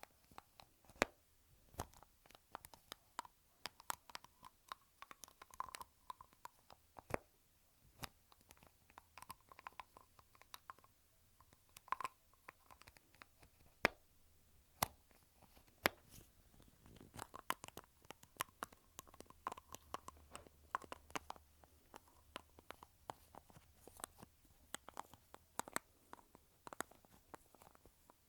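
Lipstick tubes handled close to the microphone: their caps and cases click and tap in an irregular stream, several sharp clicks a second.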